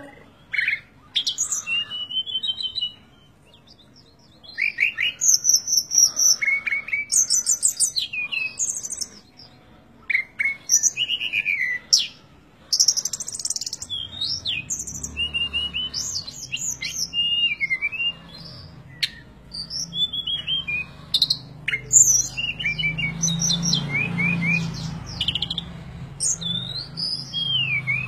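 Small songbirds chirping and whistling in quick, varied calls, with short pauses between phrases. A low hum comes in about halfway through.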